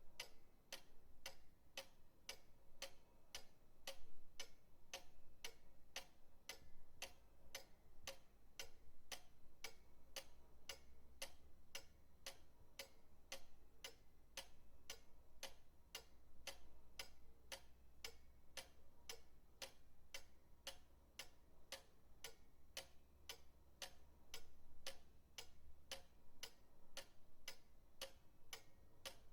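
Pendulum clock ticking steadily, about two ticks a second.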